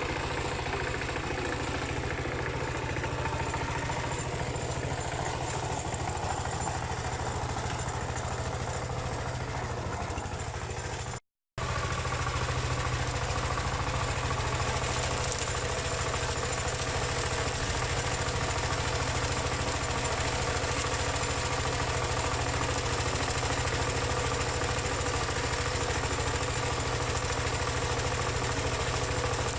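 Single-cylinder Dongfeng diesel engine of a two-wheel hand tractor running steadily while working the soil. The sound cuts out for a moment about eleven seconds in, then the engine carries on.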